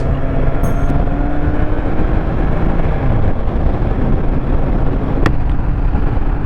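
Kawasaki Z1000's inline-four engine running while riding, mixed with heavy wind noise on the microphone; the engine note drops about three seconds in.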